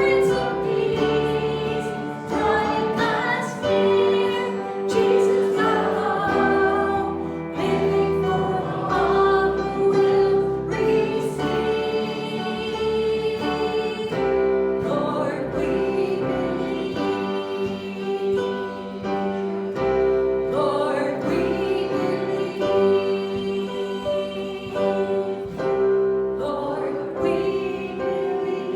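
Group of voices singing a gospel worship song with instrumental accompaniment and a steady bass line.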